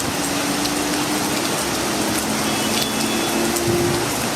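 Heavy rain falling: a steady, even rush of noise with a few scattered light ticks.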